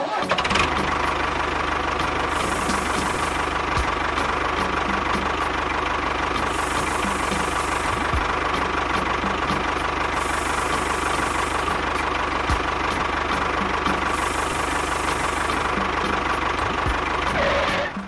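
Tractor engine running steadily with a knocking beat; it starts abruptly and cuts off near the end.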